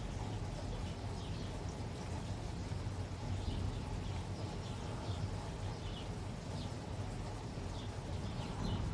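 Steady rain with a low rumble underneath, and short high chirps scattered through it every second or so.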